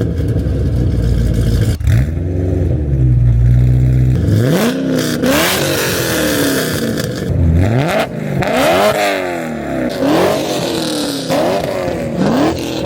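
Supercharged V8 of a 5th-gen Camaro ZL1 with catless long-tube headers, catless X-pipe and open Valvetronic mufflers. It idles steadily, then from about four seconds in it is blipped again and again, each rev rising sharply and falling back.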